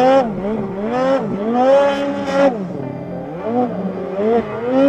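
Mountain snowmobile engine revving up and down again and again, its pitch rising and falling every half second to a second as the throttle is worked.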